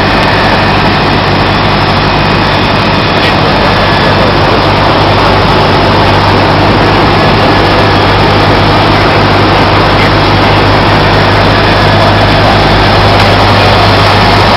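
Cessna 152's four-cylinder Lycoming piston engine and propeller running steadily: a loud, even drone with a low hum, growing slightly louder near the end.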